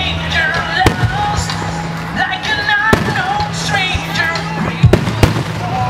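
Aerial fireworks shells bursting in sharp bangs, about four of them, over music with a steady bass line and a singing voice.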